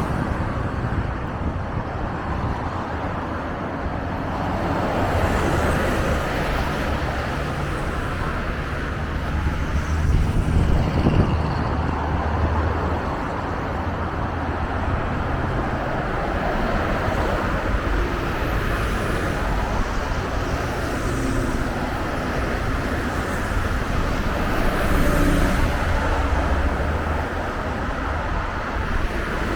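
Scania bus engine running with road traffic noise: a steady low rumble that swells louder a few times, around five seconds in, again near the middle, and near the end.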